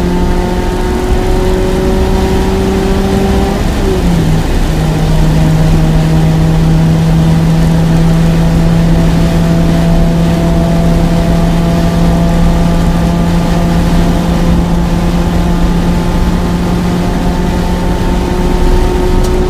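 Mazda MX-5's four-cylinder engine pulling hard at high speed, heard from inside the cabin. Its note climbs, drops with a brief break for an upshift about four seconds in, then holds steady and creeps up again. Heavy wind and road noise run underneath.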